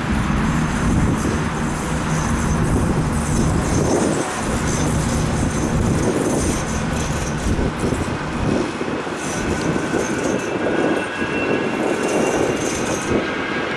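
Jet airliner engines running with a loud, steady rumble, a faint whine coming up in the second half.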